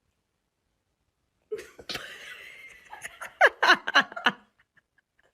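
A person laughing in a few short bursts, starting about a second and a half in after silence.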